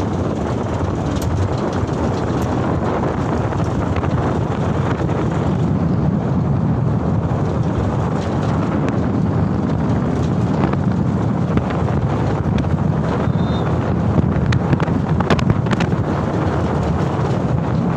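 Canter light truck on the move: steady low engine and road noise with wind buffeting the microphone, and scattered short clicks and rattles, more of them in the later part.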